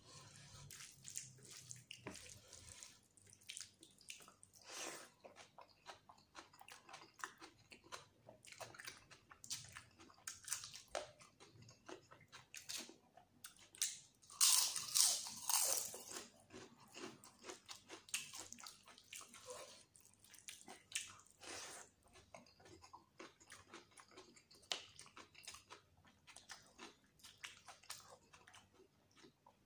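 Close-miked mouth sounds of a man eating chicken curry and rice by hand: many short chewing and biting sounds in irregular succession, with a louder, longer stretch about halfway through as he takes a big handful into his mouth.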